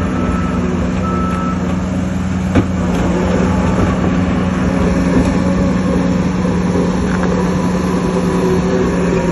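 Heavy diesel earthmoving machinery running steadily, with a reversing alarm beeping twice in the first second and a half before it stops. There is a single sharp knock about two and a half seconds in.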